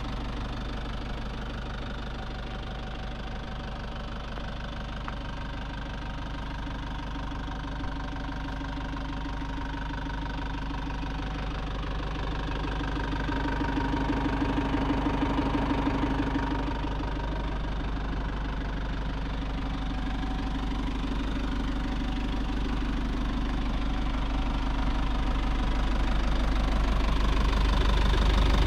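2001 Nissan Cabstar light truck's diesel engine running while driving, heard from inside the cab with a steady low drone. It gets louder around the middle as the engine is worked harder, eases off, then builds again toward the end.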